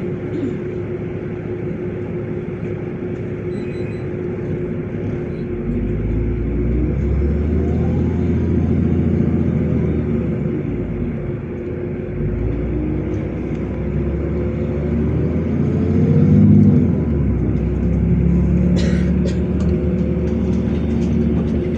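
LiAZ 5292.65 city bus driving, heard from inside the cabin. The engine and drivetrain run with a steady whine, and the engine swells under acceleration about six seconds in and again near the middle to the end. A few sharp clicks or rattles come near the end.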